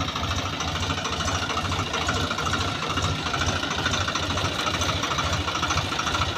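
Engine running steadily at an even idle with a fast, regular pulsing beat, the kind of motor that drives a septic-tank suction tanker.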